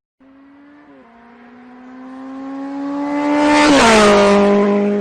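A vehicle engine's steady note grows louder and rises slowly in pitch, then drops sharply in pitch at its loudest about three and a half seconds in as it passes, and carries on at the lower pitch.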